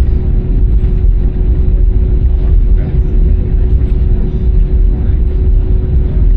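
Steady cabin noise inside an Airbus A319-100 airliner: a loud low rumble of engines and airflow with a constant hum running through it.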